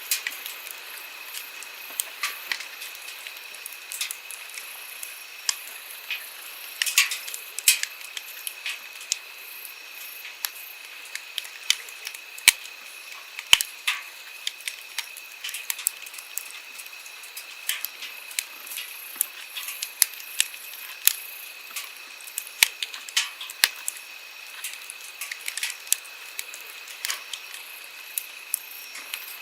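Wood campfire crackling, with irregular sharp pops and snaps several times a second, some much louder than others, over the steady rush of a flowing stream.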